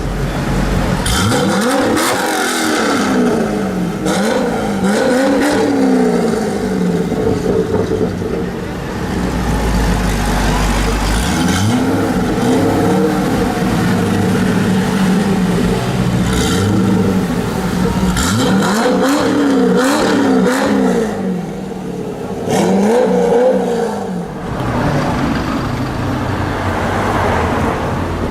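Corvette V8 engine revved repeatedly, each rev rising and falling in pitch, in four groups of blips with a low, steady idle between them.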